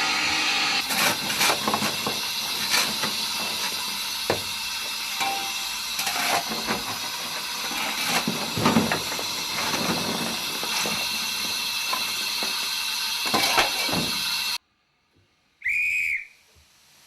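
Steam hissing steadily from the Andrew Barclay 0-4-0 steam locomotive, with scattered knocks. Near the end the hiss cuts off abruptly, and a second later the engine's whistle gives one short, high toot.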